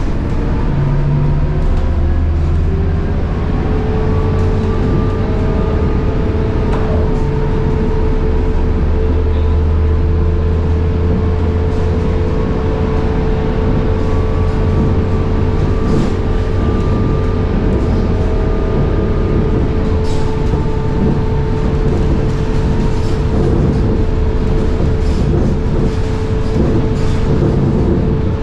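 Scania K230UB bus under way, its ZF Ecomat 6HP504C automatic gearbox giving a high whine over the low drone of the DC9 diesel engine. The whine rises in pitch over the first few seconds, then holds steady, with fainter tones drifting above it. Light rattles sound now and then.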